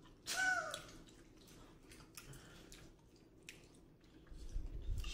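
A short wordless vocal sound near the start, then faint wet mouth clicks of someone chewing a piece of candy, with a low rumble in the last second.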